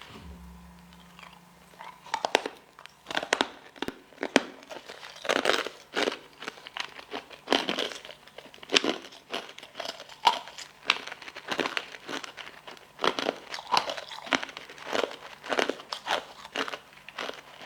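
Close-miked eating: crisp bites and crunchy chewing, the crunches coming irregularly about one or two a second after a quiet first two seconds.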